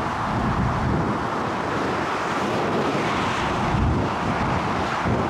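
Strong wind buffeting the microphone, a steady gusty rumble and rush of noise.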